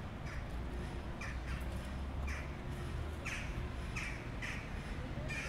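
A bird giving short, harsh calls that fall in pitch, over and over about every half second to second, over a low steady background rumble.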